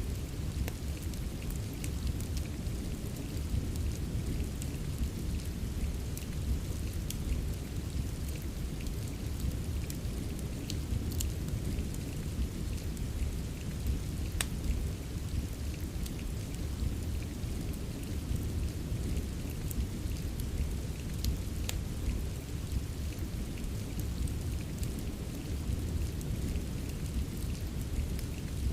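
Steady rain with a deep, even low rumble, mixed with sparse, irregular sharp crackles and pops of a wood fire in a fireplace.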